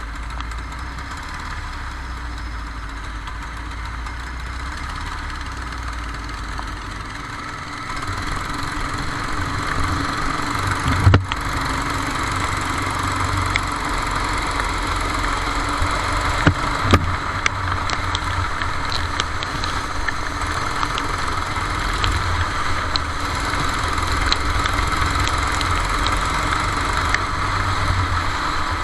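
Racing kart's engine running onboard on a wet track. It grows louder about eight seconds in. A sharp knock comes about eleven seconds in, and two more come close together around sixteen to seventeen seconds.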